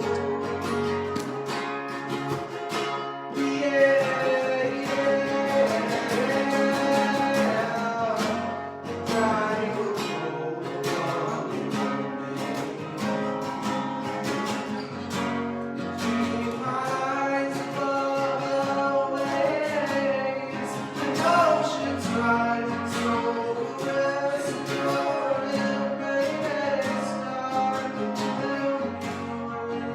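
A worship song: strummed acoustic guitar with a voice singing the melody.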